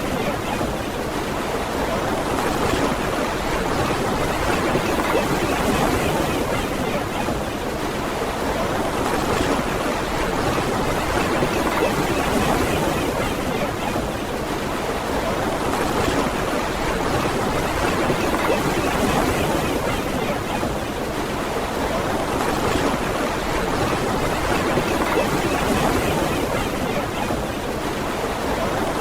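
Ocean surf washing onto a beach, a continuous rush of water that swells and eases every few seconds.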